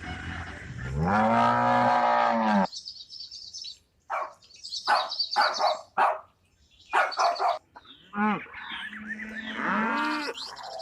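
Cattle mooing. One long moo rises and falls over the first two and a half seconds, followed by high chirps and short scrappy noises, then a run of shorter moos in the last few seconds.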